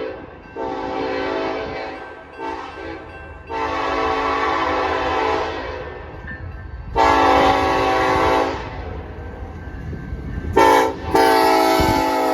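BNSF diesel locomotive horn sounding a series of blasts, each a chord of several tones at once: a long blast, a short toot, then long, long, short, long, the grade-crossing warning pattern. A low locomotive rumble runs underneath.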